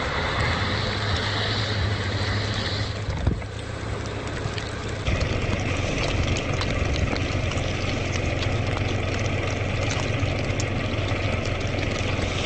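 An engine running steadily, a low hum under a layer of hiss, with a brief dip a little over three seconds in.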